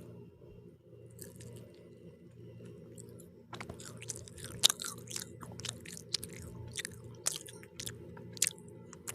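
A person biting into and chewing pizza close to the microphone: wet mouth clicks and crunches of the crust, which start properly about three and a half seconds in, over a steady low hum.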